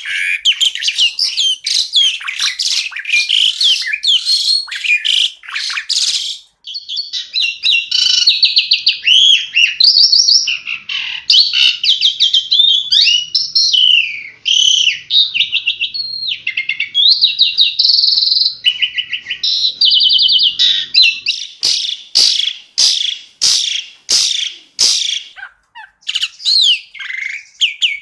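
Asian pied starling (jalak suren) singing a long, varied song. It opens with dense scratchy chatter, moves into rapid trills and whistled notes, and from about three quarters of the way through gives a run of sharp, clipped 'shot' notes.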